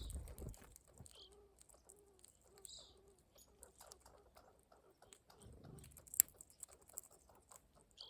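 Faint, scattered calls of songbirds at a winter feeder, a few short high notes, with soft clicks and a single sharp tick about six seconds in.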